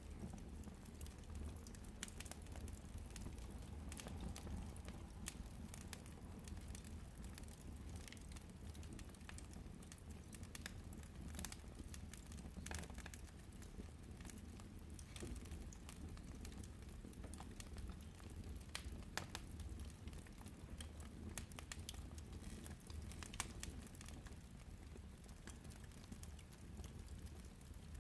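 Firewood logs burning, crackling with irregular sharp pops over a low steady rumble.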